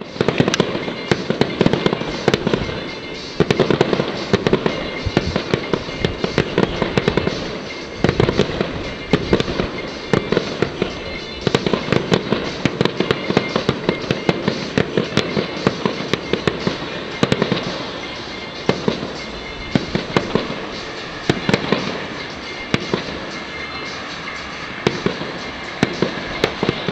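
Aerial fireworks display: a rapid, continuous run of bangs and crackles, several a second.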